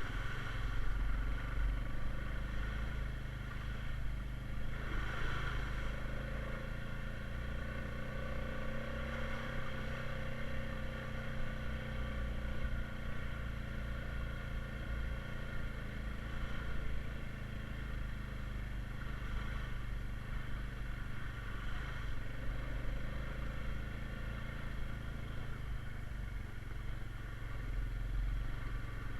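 Honda Rubicon 520 ATV's single-cylinder engine running steadily under way, with the rumble of the ride.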